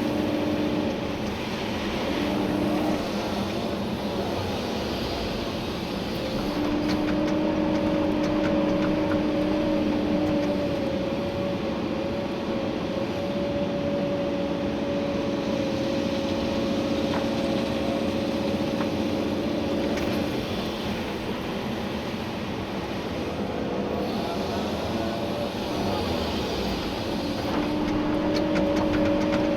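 Komatsu PC290-11 excavator's diesel engine and hydraulics working under load while digging gravel, heard from the cab. A steady whine comes and goes as the hydraulics are worked, with occasional faint knocks.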